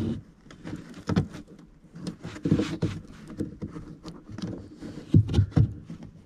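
Irregular knocks, clicks and rattles of hands working plastic car trim and a lamp fitting loose.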